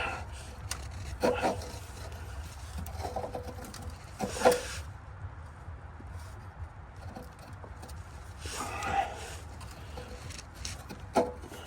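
Scattered scrapes and knocks of metal as a support bracket under a car is worked and slid loose by hand, about five separate bouts spread over the stretch.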